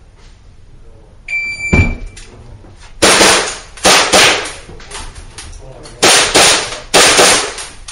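A shot timer beeps once about a second in, signalling the start, and a low thump follows. Then comes a fast string of pistol shots in two clusters, each shot ringing briefly in the indoor range.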